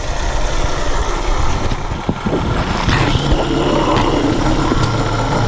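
Kia Magentis engine running with a steady hum from the water pump, with a few short clicks about two to three seconds in. The hum is the sign of a failing pump: its shaft wobbles in a figure-eight, the bearing has lost its grease and the pump is leaking coolant, so the pump is due for replacement along with the drive belt and rollers.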